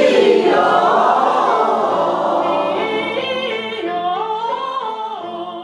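A choir singing unaccompanied, the voices sliding up and down in pitch together.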